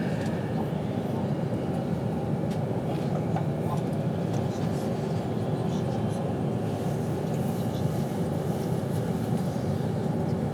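Steady rumble of a passenger train running at speed, heard from inside the carriage, with a faint constant hum and a few light clicks and rattles.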